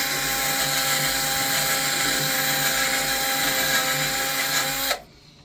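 Small handheld power tool running steadily at high speed, cleaning the threads inside a shower valve body, then cutting off abruptly about five seconds in.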